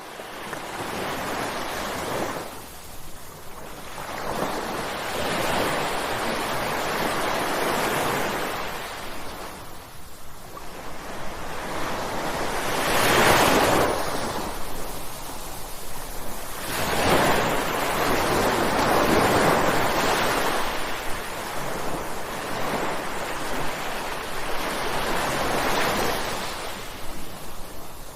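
Ocean waves crashing, the surf swelling and falling away in slow surges every few seconds, with the loudest break about halfway through.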